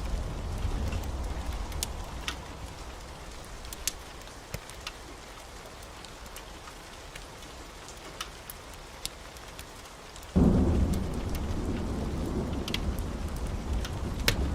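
Steady heavy rain with scattered sharp crackles. A low thunder rumble fades out over the first few seconds, then a loud thunderclap breaks in suddenly about ten seconds in and rumbles on.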